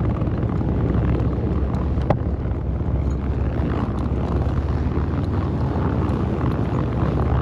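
Vehicle engine running in a low, uneven rumble, with wind buffeting the microphone.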